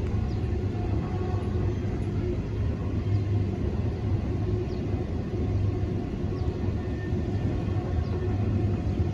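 Intermodal freight train of container cars rolling steadily past: a continuous low rumble of wheels on the rails.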